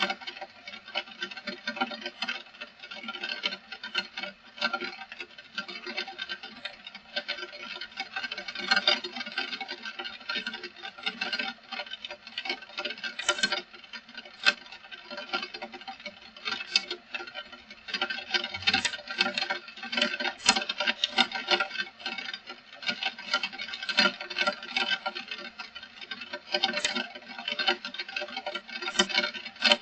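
Heavy rain falling, a dense, irregular patter of drops with many sharp individual hits.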